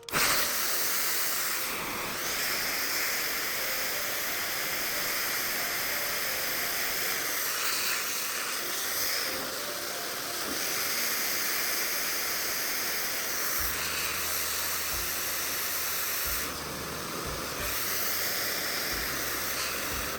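A steady, loud hiss that starts and stops abruptly and lasts about twenty seconds.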